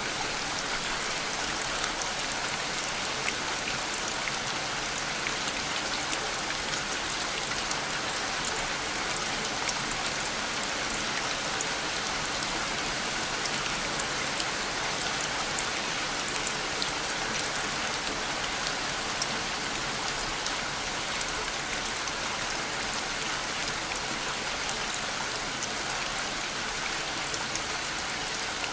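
Steady rain falling, a dense even hiss with many individual drops ticking through it.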